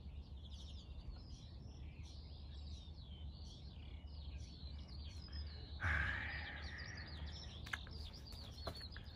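Many small birds chirping and twittering continuously over a steady low background rumble. A brief rush of noise comes about six seconds in.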